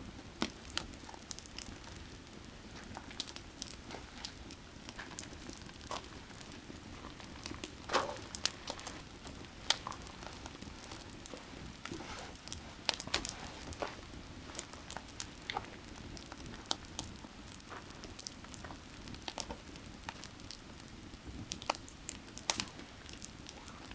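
Firewood burning with irregular crackles and sharp pops, a few louder pops standing out, over the steady low rush of a creek's running water.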